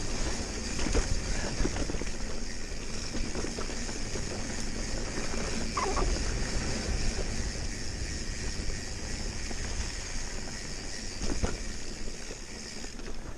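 Mountain bike being ridden along a dirt trail: steady wind rumble on the microphone and tyre and drivetrain noise, with a few short knocks from the bike, about halfway through and again near the end.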